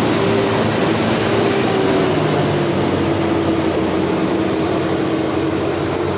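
Diesel engine of a Sterling cement mixer truck running loudly and steadily, its pitch dipping slightly about two and a half seconds in.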